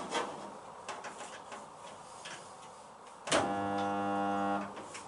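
Resistance spot welder firing: a sharp clack as the tongs clamp, then a steady electrical buzz of about a second and a half as the weld current flows through the steel panels. A few light clicks come before it.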